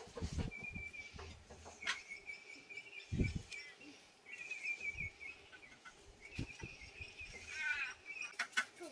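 Faint bird calls outdoors: a thin high trill that comes and goes several times. Under it are soft knocks and rustles from pansy seedlings being worked out of a plastic punnet and set into potting mix, a few sharp clicks near the end, and a short high call about three-quarters through.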